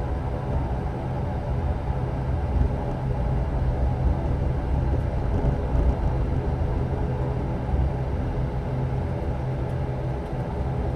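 Steady cabin drone of an ATR turboprop airliner's engines and propellers after landing: a low rumble carrying several steady humming tones.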